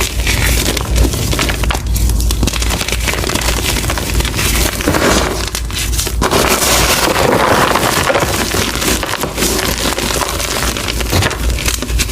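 Reformed gym chalk block being crushed, giving a steady, dense crunching and crackling of the chalk breaking apart, thickest around the middle.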